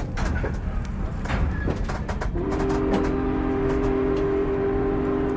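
A train rolling slowly along the track, with a low rumble and scattered clanks from the wheels and cars. About two and a half seconds in, the locomotive's whistle starts a long, steady blast of several notes sounding together, still going at the end.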